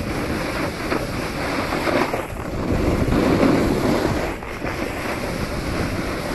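Wind rushing over the microphone of a skier's camera on a fast descent, mixed with the hiss and scrape of skis carving turns in the snow. The rush swells in the middle and eases again.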